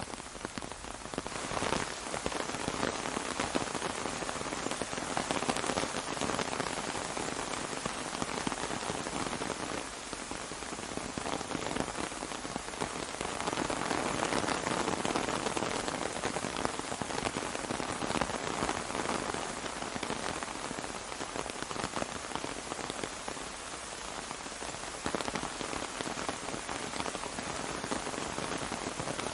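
Steady rain falling on an umbrella, a dense patter of drops that swells and eases gently in strength.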